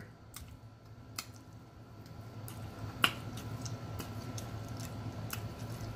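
Close-up mouth sounds of someone eating sausage: scattered sharp, wet clicks of lip smacking and chewing, a few per second, over a faint steady low hum.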